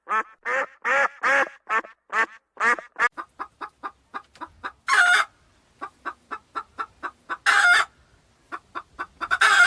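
Ducks quacking in a rapid series for about three seconds, then chickens clucking quickly, broken by three short, loud squawks.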